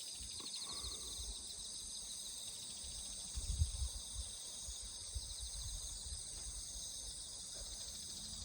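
A steady chorus of insects singing outdoors, with a fast pulsing trill near the start. Low rumbling bumps come and go underneath, strongest in the middle.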